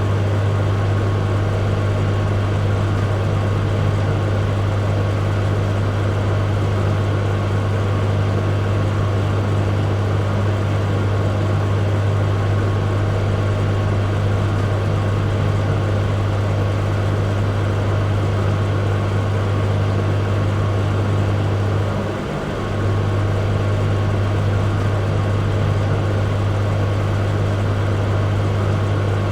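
Microwave oven running: a steady low hum over an even fan-like hiss. The hum dips briefly once, about three-quarters of the way through.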